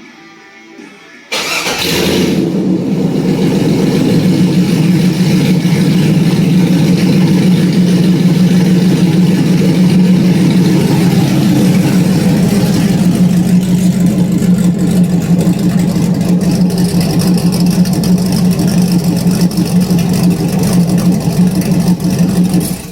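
Ford Torino engine starting about a second in, catching with a loud burst, then idling steadily through an exhaust system that is only half finished. The running sound cuts off abruptly at the end.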